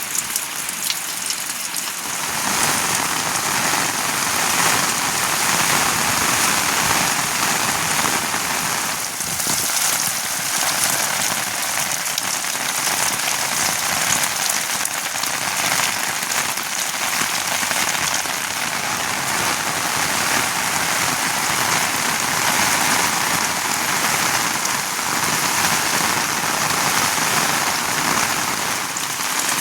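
Steady monsoon rain falling, an even dense hiss of drops. About two seconds in it swells louder and fuller and then holds steady.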